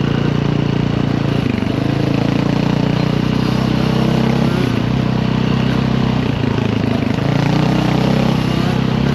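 Dirt bike engine running steadily under way, its pitch dipping briefly a few times as the revs drop and pick up again.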